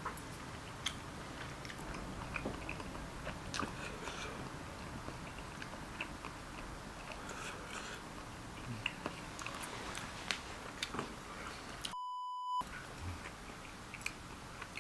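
Close-up eating sounds from tteokbokki: soft chewing, with small wet mouth clicks and crunches scattered throughout. About twelve seconds in, all other sound cuts out for a short electronic beep lasting about half a second.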